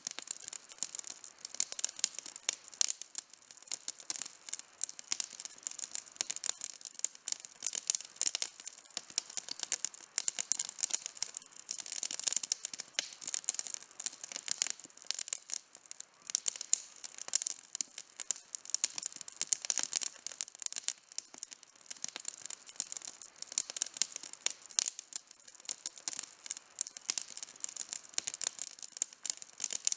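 Campfire burning with constant crackling: a dense stream of small, sharp pops, mostly high-pitched.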